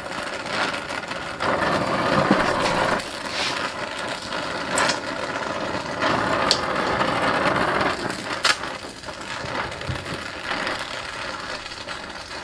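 Handheld gas torch hissing as it heats a metal bracket for bending, louder in two spells, with a few sharp metal clicks.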